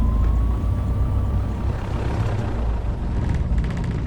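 Cessna 150's Continental O-200 four-cylinder engine running at low power after landing, a steady low drone heard in the cockpit.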